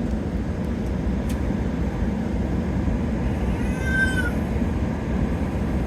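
Steady low rumble of the air-conditioning inside a parked Boeing 777-300ER cabin. About four seconds in comes one short, high-pitched, meow-like cry that rises and falls.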